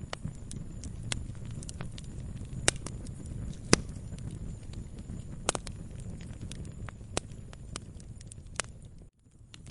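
Campfire crackling: a steady low rumble of burning wood with irregular sharp pops, the loudest about three, four and five and a half seconds in. The sound cuts out for about half a second near the end, then resumes.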